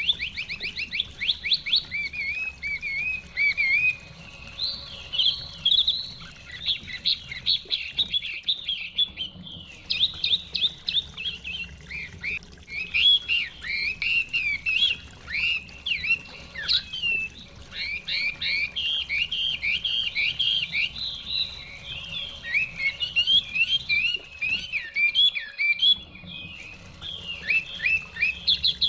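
Chinese hwamei singing a long, rapid, varied song of loud whistled phrases and trills, pausing briefly a few times.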